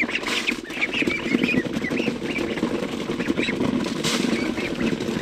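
A flock of farmyard ducks and chickens calling, with many short high peeps scattered over a busy background of lower calling and rustle.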